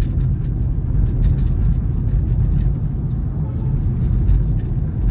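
Honda City car cabin noise while driving: a steady low rumble of engine and road, with scattered light ticks.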